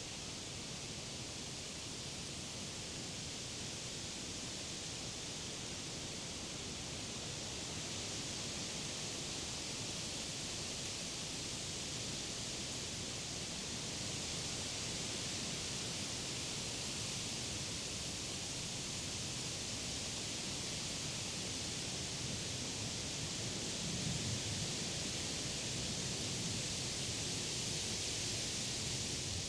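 Wind rustling the leaves of summer trees: a steady, hissing rush that slowly swells, with a brief gust about three-quarters of the way through.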